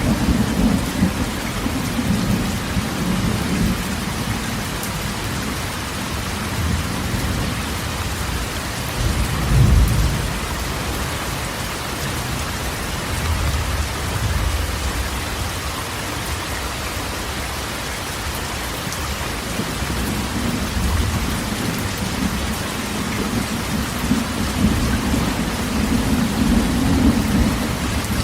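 Heavy rain drumming steadily on a corrugated metal roof, with low rolling thunder that swells about ten seconds in and again near the end.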